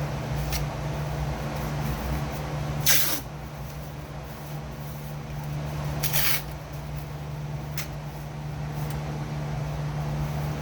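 A steady low machine hum, with two short bursts of hiss about three seconds apart and a few faint clicks.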